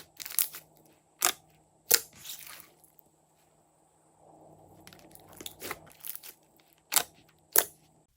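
Close-up crunching and crackling from slime-making materials being handled, broken by about five sharp, loud snaps, two near the start, one about two seconds in, and two near the end.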